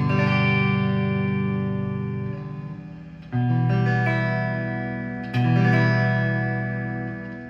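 G&L Legacy Tribute electric guitar on its single-coil neck pickup, through a Line 6 amp on a clean American tone: strummed chords, a fresh one about every two seconds, each left to ring and fade. A faint single-coil hum sits underneath.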